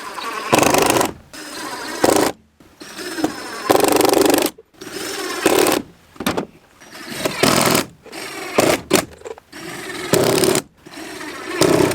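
Power drill driving decking screws into the wooden corners of a dovetailed beehive box. It runs in repeated bursts of a second or two, stopping and starting as each screw goes in.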